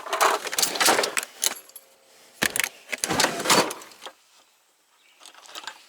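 Clinking and rattling of camp gear being handled and packed, in two bouts of clatter with a quiet gap between them and a few faint ticks near the end.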